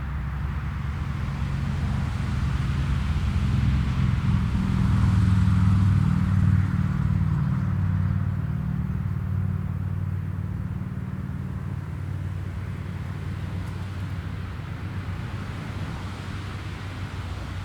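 Jet airliner passing close by: a low engine rumble that swells to its loudest about five seconds in, then slowly fades.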